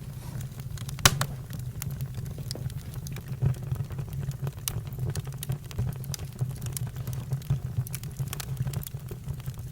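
Campfire burning: wood crackling with irregular sharp pops, one louder pop about a second in, over a steady low rumble.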